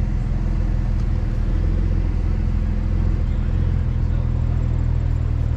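A car engine running steadily: a low, even rumble that holds one pitch.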